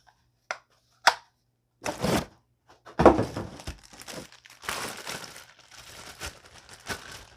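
Plastic packaging crinkling and rustling as vacuum parts are unwrapped, with a couple of sharp clicks in the first second or so and a louder rustle about three seconds in.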